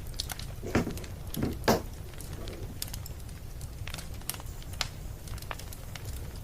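Wood fire crackling: a steady low rumble with scattered sharp pops, two or three of them louder between about one and two seconds in.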